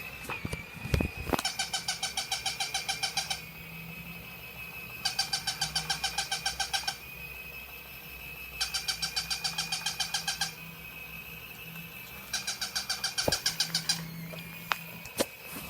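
A battery-powered Christmas toy dog sounding off in four evenly spaced bursts of about two seconds each: fast chirping pulses, about ten a second, over a faint motor hum, with a steady high electronic tone in between.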